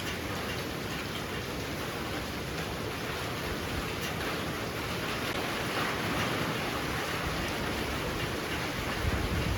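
Heavy rain pouring steadily, a dense hiss with faint drop ticks, swelling slightly in the middle, with a low rumble of wind building near the end.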